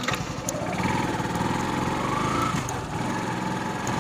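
Motorcycle engine running on the move, with a brief rise in pitch about two seconds in.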